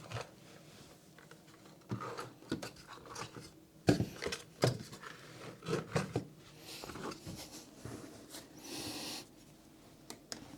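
Small plastic and plywood parts being handled and set down on a workbench: scattered clicks and knocks, the loudest about four seconds in, with a brief rubbing hiss near the end.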